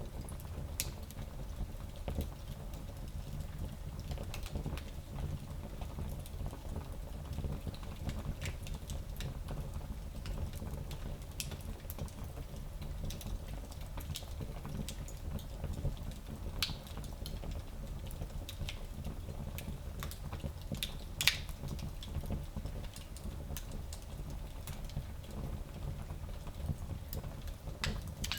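Fire in a small fireplace crackling: a steady low rumble under scattered pops and clicks, with one louder pop about three-quarters of the way through.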